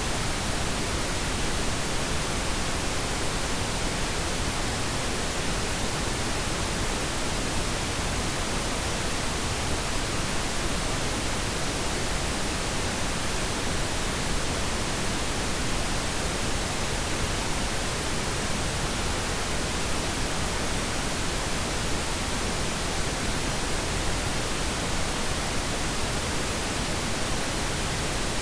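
Steady synthetic pink noise: an even, unchanging hiss spread across the whole range, without tones or events.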